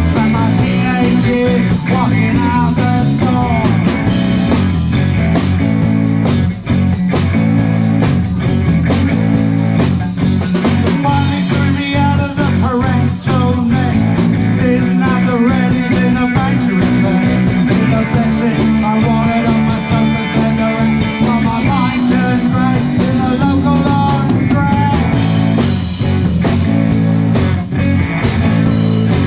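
Rock band playing live: electric guitar lines over bass, drums and percussion, with a steady drum beat throughout.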